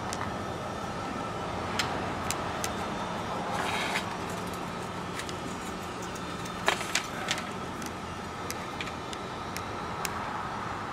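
A steady motor hum with scattered light clicks and ticks, and a brief rasp about four seconds in.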